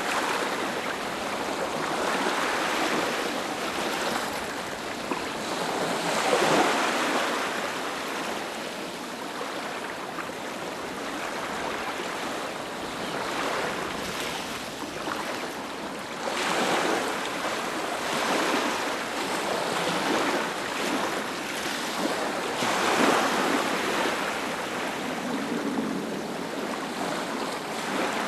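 Ocean waves breaking on a beach: a continuous hiss of surf with the wash swelling as waves break, about three or four times.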